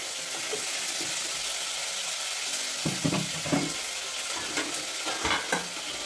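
Ginger-garlic and green-chilli paste frying in hot oil in a kadai with mustard seeds and curry leaves: a steady sizzling hiss. A few short louder pops come about halfway through and again near the end.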